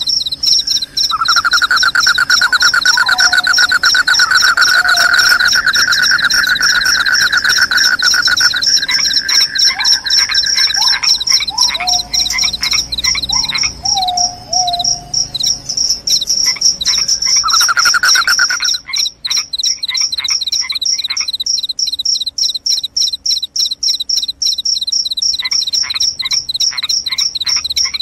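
Crickets chirping loudly in fast, even pulse trains, a high trill running throughout with a second just below it. A lower trill joins for about the first ten seconds and again briefly at about eighteen seconds, with short lower calls sliding down in pitch in between.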